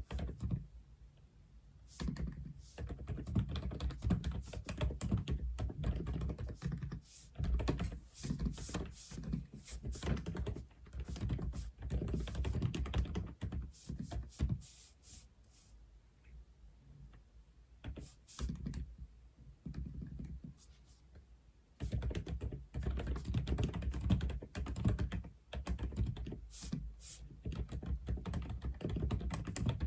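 Typing on an Aula (독거미) F87 mechanical keyboard: runs of keystrokes in uneven bursts, with short pauses between them and a longer lull a little past the middle.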